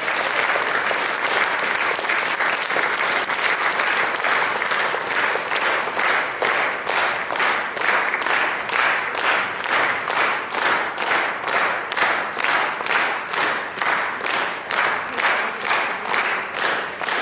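Concert audience applauding. About six seconds in the scattered clapping falls into rhythmic clapping in unison, about two and a half claps a second.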